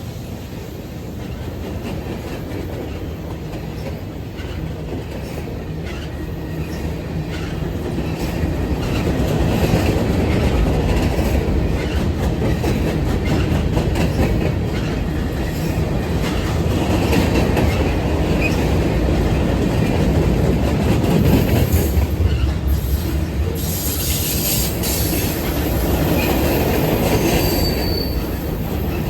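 A train rolling past: a steady rumble of wheels on rail with scattered clicks from the rail joints. It grows louder about eight seconds in. Near the end comes a high-pitched wheel squeal.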